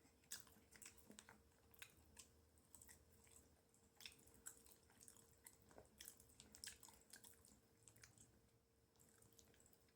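Faint close-up chewing of animal style fries, soft and saucy: irregular wet mouth clicks and smacks that thin out near the end, over a faint steady hum.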